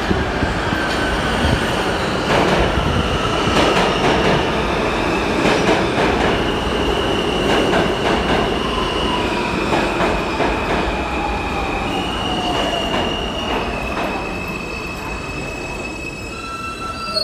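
New York City subway train of R160 cars pulling into a station: loud rumble of wheels on rail with high, steady wheel squeals and a motor whine falling in pitch as it slows.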